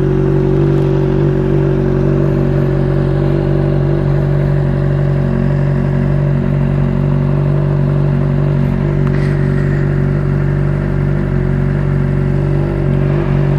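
A 2011 Honda CBR600RR's inline-four engine idling steadily, warm, through its exhaust with the catalytic converter still fitted.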